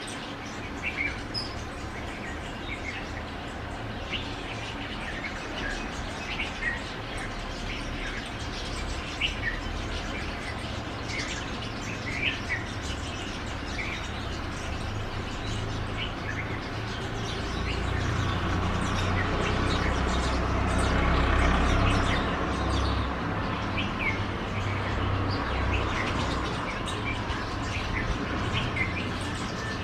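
Birds chirping: many short, high calls scattered throughout. Under them runs a steady low rumble that grows louder for a few seconds past the middle.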